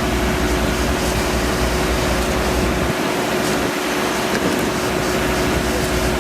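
A machine running steadily with a constant hum and a low rumble, and a few faint clicks.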